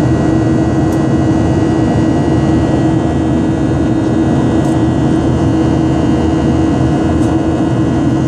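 Boeing 737 jet engines running with a steady, loud drone and a constant hum tone, unchanging throughout.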